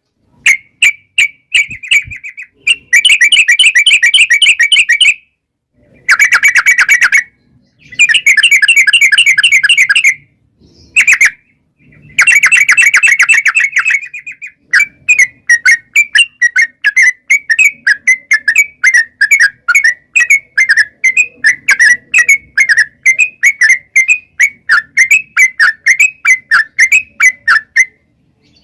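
Yellow-vented bulbul (trucuk) singing its long rapid chattering 'ropel' song: several dense trills a second or two long, then from about 15 seconds in a steady run of short bubbly notes, about three a second.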